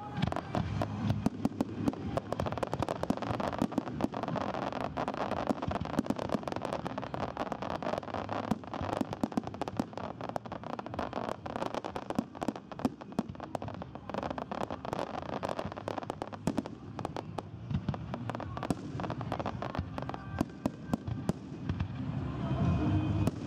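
Aerial fireworks display: shells bursting overhead with a dense, continuous run of sharp bangs, pops and crackling.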